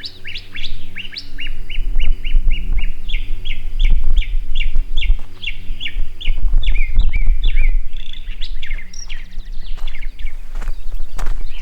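A songbird singing a long run of short, quick chirps repeated about three times a second, with a loud low rumble underneath.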